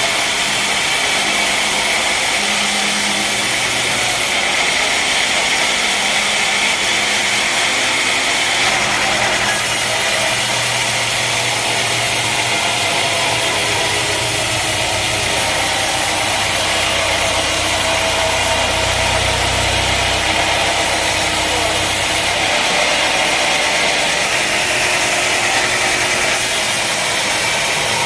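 Sawmill machinery running steadily: a continuous high hiss over a low engine note that grows stronger and weaker.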